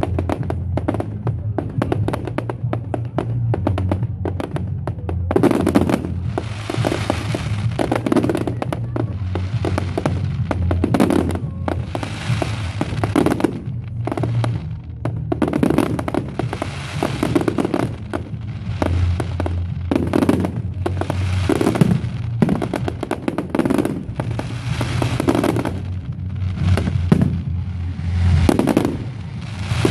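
A firework display: rapid crackling for the first few seconds, then a run of shells bursting about once a second, each followed by a crackling, hissing shower. Music with a steady bass plays underneath.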